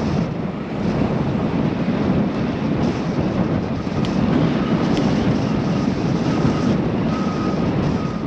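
Wind rushing over the camera microphone while riding a bicycle, a steady low rushing noise. A faint thin whine comes and goes in the second half.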